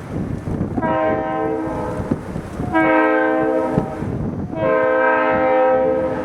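Leslie RS3L three-chime air horn on a diesel locomotive sounding three long blasts in a row, a steady multi-note chord each time, as for a grade crossing. Wind rumbles on the microphone underneath.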